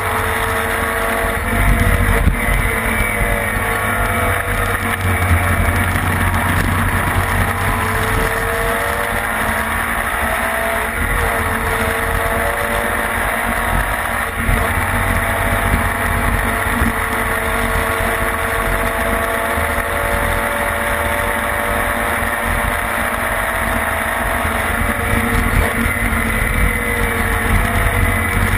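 Racing sidecar engine heard on board at speed, its pitch climbing through the revs and dropping back at gear changes several times.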